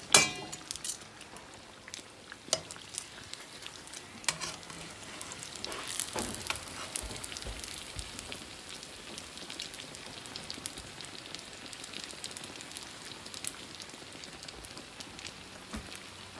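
Fried dough frying in a skillet of hot oil: a steady sizzle with sharp crackling pops, growing denser around six seconds in. A loud sharp click comes right at the start.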